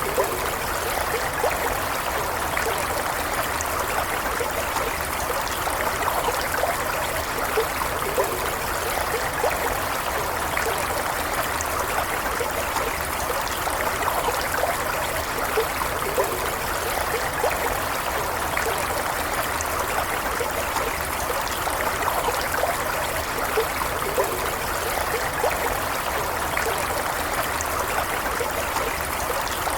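Shallow stream of running water flowing and babbling steadily, with small gurgles and splashes throughout.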